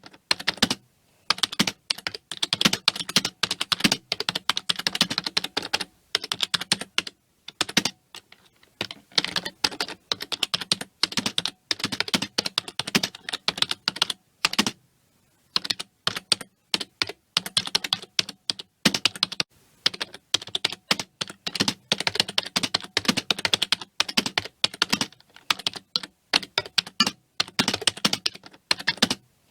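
Computer keyboard typing: rapid runs of key clicks in bursts, broken by brief pauses of about a second.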